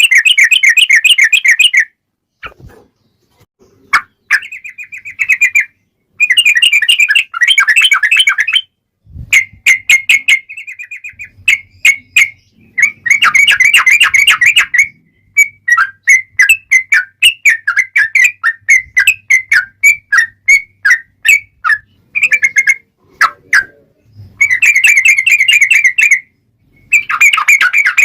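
Sooty-headed bulbul (trucukan) singing in long rolling runs of quick repeated chattering notes. Several runs of a second or more are broken by short pauses and scattered single notes.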